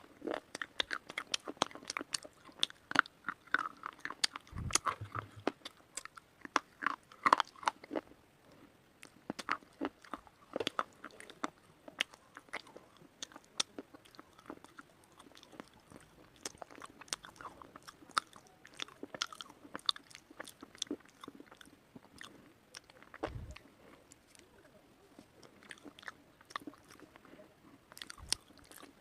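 Close crunching of a person biting and chewing white slate (slate pencil or bar): irregular sharp, brittle cracks, several a second, with a few dull low thumps.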